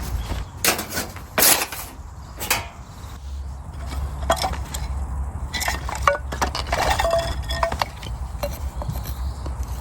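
Camp cooking gear being handled: a few sharp wooden knocks, then lighter clinks of metal or crockery that ring briefly.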